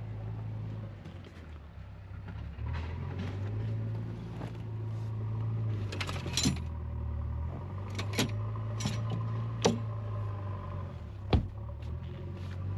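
Cabin sound of a 2013 Mahindra Bolero on the move: the engine runs with a steady low drone while sharp clicks and rattles, like loose metal jangling, come about five times in the second half, the loudest about eleven seconds in.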